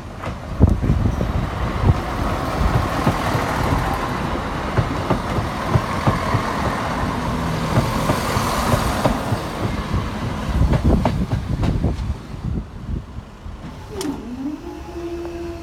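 Class 170 Turbostar diesel multiple unit running over the level crossing, a loud steady rumble with scattered wheel knocks over the rail joints. A steady tone starts near the end.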